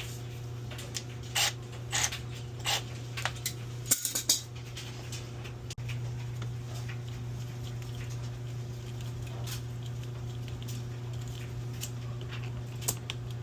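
Sharp metallic clinks and knocks as rusted sewage pit lid hardware is handled with tools, clustered in the first few seconds with one more near the end, over a steady low hum.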